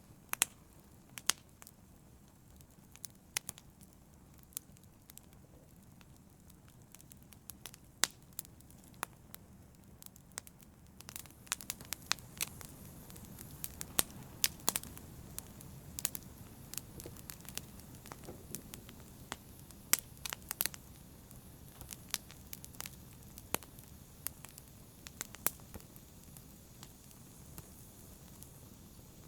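Wood fire crackling in a fireplace: irregular sharp pops and snaps over a low steady hiss of the burning, with the crackles coming thicker from about a third of the way in.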